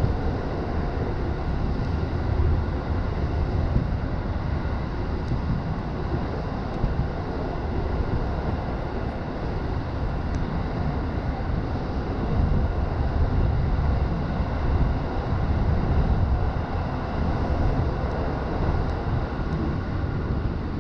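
Running noise of an electric commuter train heard from inside the carriage: a steady low rumble of wheels on rail, swelling a little louder a bit past halfway through.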